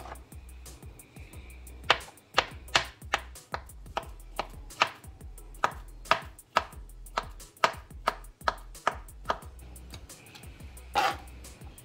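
Kitchen knife chopping banana into chunks on a plastic cutting board: a run of sharp knocks, about three a second, then one louder knock near the end.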